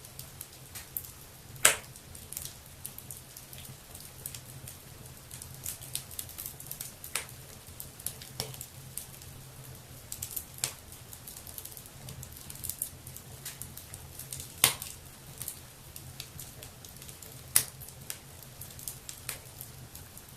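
Wood fire burning in a fireplace, crackling with irregular small pops and snaps, three sharp loud pops about 2, 15 and 18 seconds in, over a low steady hum.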